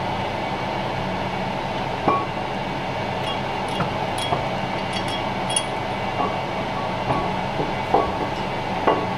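A steady mechanical hum, with scattered sharp metal clinks and knocks from parts and tools being handled during a tractor clutch repair.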